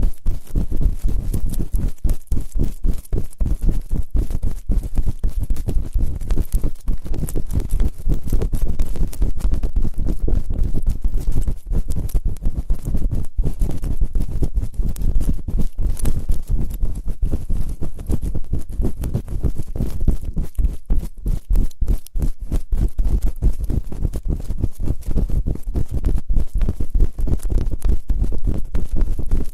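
ASMR ear-cleaning sounds: dense, rapid, irregular scratching and tapping close on the microphone, with a strong low rumble under it.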